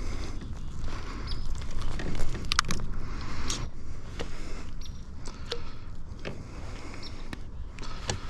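Handling noises in a kayak after landing a fish: scattered clicks and knocks over a steady low rumble.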